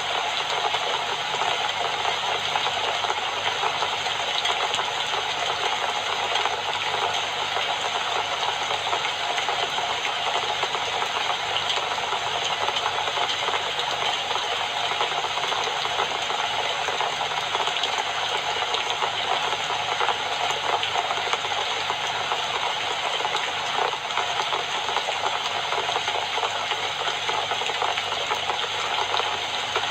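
Steady rain falling, an even hiss of many dense drops that holds at one level throughout.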